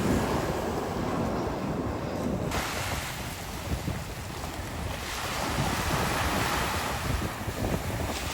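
Waves of a rough sea washing in, with wind buffeting the microphone.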